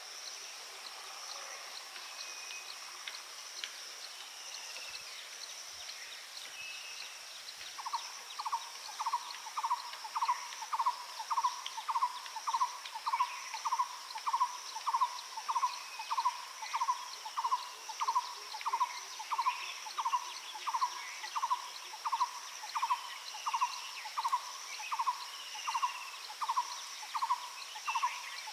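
A bird calling one short, mid-pitched note over and over, about twice a second, in a steady unbroken series that begins about eight seconds in. Under it runs a steady high-pitched insect drone, with faint scattered calls of other birds.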